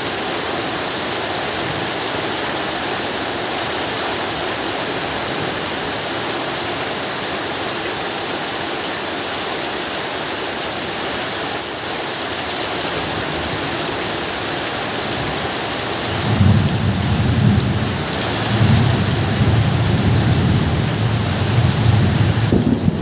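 Steady heavy rain falling, with low rumbling thunder coming in about two-thirds of the way through and continuing.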